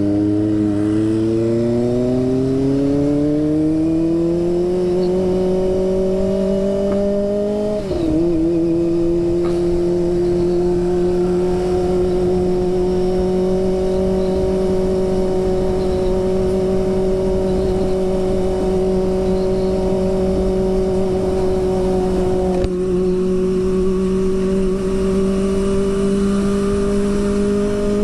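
Kawasaki ZX-25R's 250 cc inline-four engine pulling hard, its pitch rising for about eight seconds, then dropping sharply at an upshift and holding a steady high cruising note that rises a little near the end.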